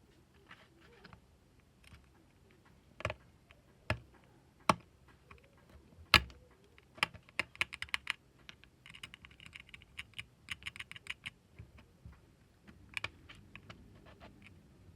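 Sharp clicks and knocks of small hard objects being handled, with a few loud taps, then a couple of seconds of fast rattling clicks midway through.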